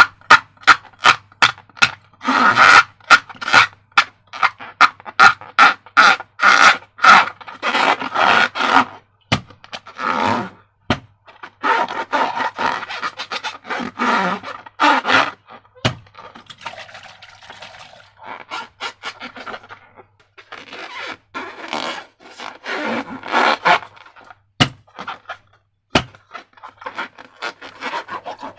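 Slime being squished and worked by hand, making rapid wet clicks and squelches. They come thick and loud in the first half, then turn softer and sparser.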